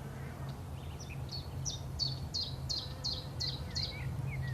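A bird giving a rapid series of short, high chirps, about three a second, over a low steady hum.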